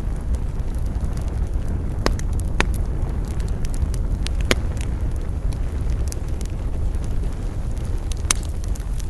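Wood campfire burning, with sharp crackling pops about two, two and a half, four and a half and eight seconds in over a steady low rumble.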